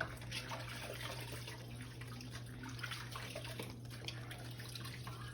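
Pot of chicken and dumplings at a boil: water bubbling and splashing in small irregular pops, over a steady low hum.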